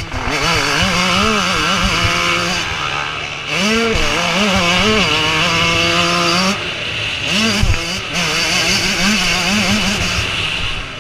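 Motocross motorcycle engines revving up and down as the bikes ride the track, the pitch rising and falling again and again with a steady held note about two-thirds of the way through.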